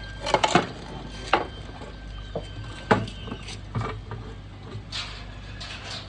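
A handful of irregular sharp knocks and clicks, a cluster of them about half a second in and single ones spread through the rest, over a faint steady low hum.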